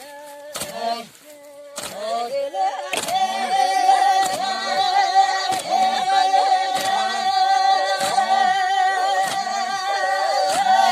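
Unaccompanied group singing. From about two seconds in, a woman holds one long note with vibrato over short falling calls that repeat about three times every two seconds.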